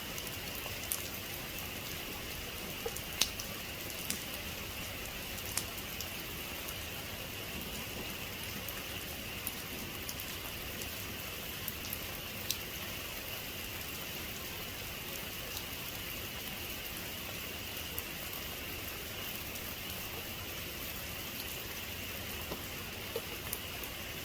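Steady heavy rain falling as an even hiss, with scattered sharp taps of single drops striking a surface.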